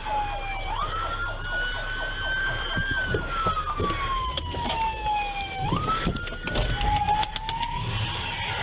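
Police car siren wailing, its pitch sliding slowly down and then back up in cycles of a few seconds, over vehicle noise. A run of short clicks comes in late.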